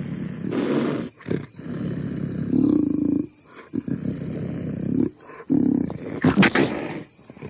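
Animal roars and growls in a run of short bursts with sudden breaks between them, and a louder, harsher cluster a little past six seconds in.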